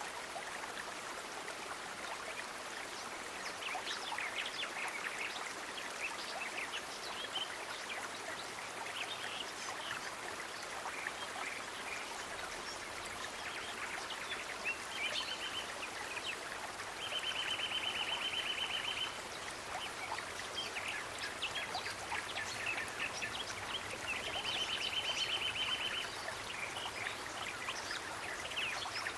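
Steady running water of a stream, with many short bird chirps over it and a rapid, high trill that lasts about two seconds, heard three times.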